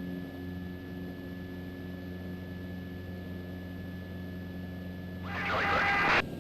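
The Mooney M20E's fuel-injected four-cylinder engine runs at takeoff power in the climb just after liftoff, a steady low drone. About five seconds in, a voice cuts in for about a second and stops abruptly.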